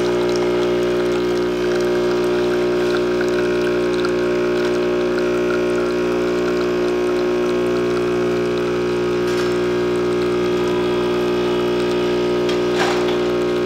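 DeLonghi Perfecta super-automatic espresso machine's vibration pump running steadily as it pulls a double espresso shot, a constant even hum.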